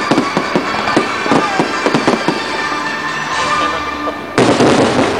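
Aerial fireworks shells bursting in quick succession, a dense run of bangs and crackling, with music playing underneath. The bangs thin out after about three seconds, and near the end a louder, even hiss of noise cuts in suddenly.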